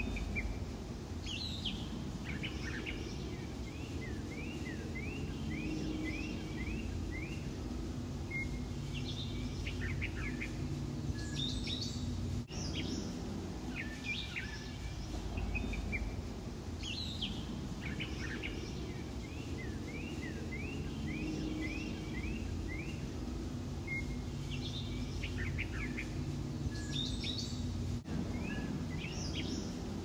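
Several small birds chirping and calling, with runs of quick, repeated down-slurred chirps, over a steady low background hum. The same stretch of birdsong repeats about every 15 seconds, with a brief click at each repeat.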